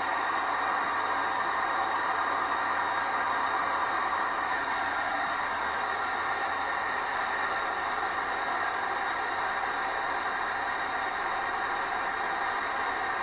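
Small 14cc water-cooled, pressurised, twin-cylinder gamma Stirling engine running steadily on a gas flame, giving an even whir and hiss.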